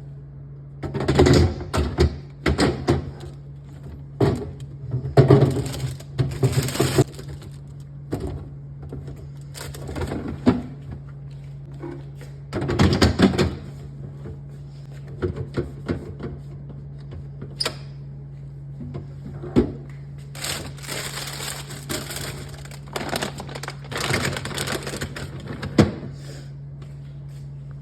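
Irregular knocks, clicks and rubbing sounds of things being handled and set down while a fridge is cleaned, with several longer scrubbing or shuffling stretches, over a steady low hum.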